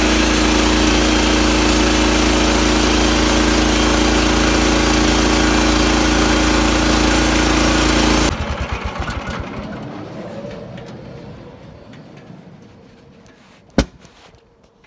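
Portable sawmill's gas engine running steadily, then switched off about eight seconds in and slowing to a stop with fading pulses. A single sharp click near the end.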